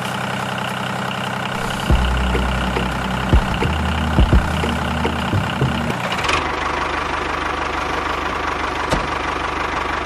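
A motor running steadily with a few short knocks; the sound changes character about six seconds in.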